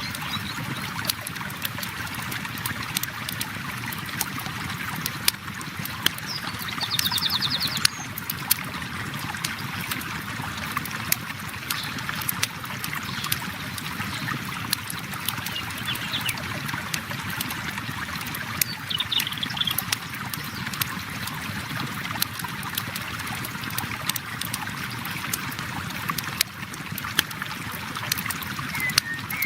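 River water flowing steadily, mixed with a campfire crackling: a constant rush of water under frequent small sharp pops and snaps of burning wood.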